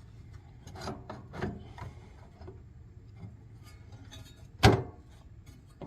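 Scattered clicks and light knocks of the forced-air heater's housing being handled while a part is pushed to latch, with one sharp, much louder knock near the end.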